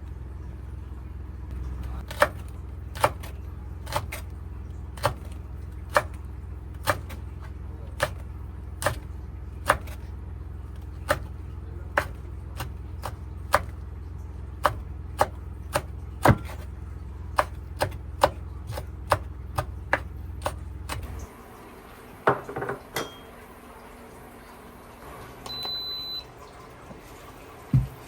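Sharp knocks about once a second over a steady low hum. The hum cuts off about two-thirds of the way through, followed by a few clatters and a short high electronic beep.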